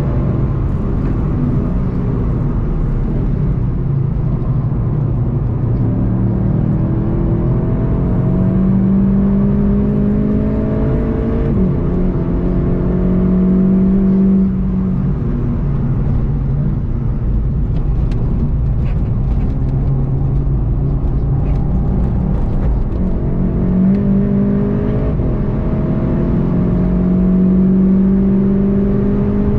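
VW Golf 7.5 GTI TCR's turbocharged 2.0-litre four-cylinder pulling hard on track, its pitch climbing and dropping back at each upshift. It lets off sharply about halfway for a slow corner, then accelerates again.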